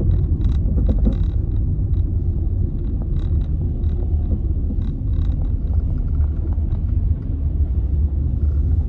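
A car driving, heard from inside: a steady low road-and-engine rumble with a few faint clicks.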